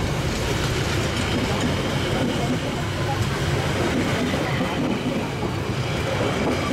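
Passenger train coaches rolling past close by: a steady, loud rumble of steel wheels on the rails.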